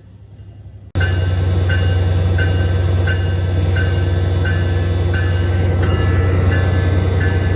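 Commuter train locomotive with its bell ringing steadily, about one and a half strokes a second, over a loud, steady low engine hum. The sound starts suddenly about a second in.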